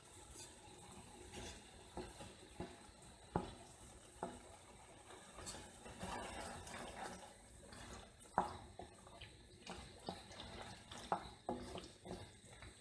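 Close-miked eating sounds: wet chewing and mouth noises, as of macaroni and cheese, broken by irregular sharp clicks and smacks, the strongest about three and a half, eight and eleven seconds in.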